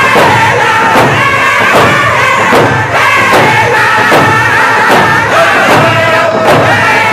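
Round dance song: several voices singing a chant in unison over a steady hand-drum beat, about two and a half strokes a second.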